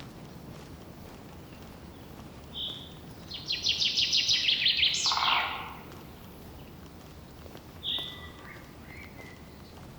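Songbirds singing in forest: one loud rapid trill of high notes lasting about two seconds, ending in a downward sweep, and another bird's short high note repeated twice with lower notes after it, over a steady low background rush.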